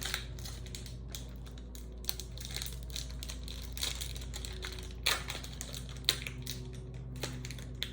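Trading cards being handled and shuffled by hand: light rustling and small clicks, with a few sharper clicks in the second half, over a steady low hum.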